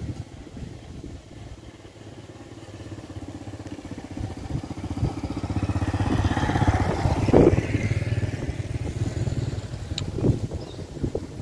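A motor vehicle's engine, growing louder to a peak about seven seconds in and then fading, as if passing by.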